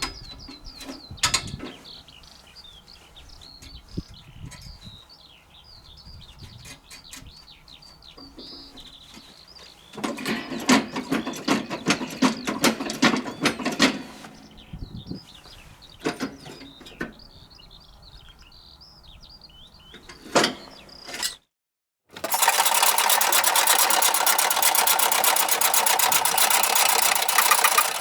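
Birds chirping in the background with scattered metallic clicks and clanks, and a loud spell of mechanical clattering about ten seconds in. After an abrupt cut to silence, a small engine runs loudly with a steady pulse, most likely the mini truck's own engine.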